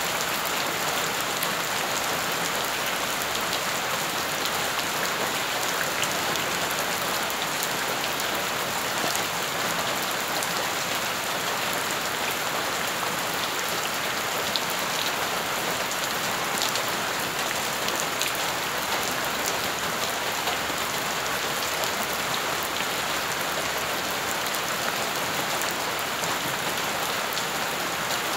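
Rain falling onto wet dirt and gravel ground: a dense, steady patter of drops splashing into shallow puddles.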